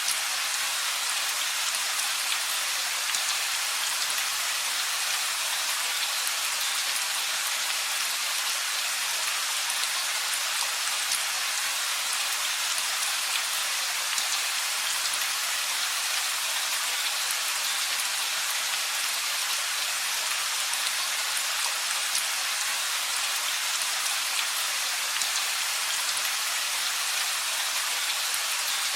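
Steady rain, an even hiss made of many fine drop hits, with no thunder.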